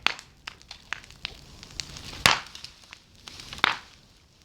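Large bonfire crackling, with scattered sharp pops, a few of them loud.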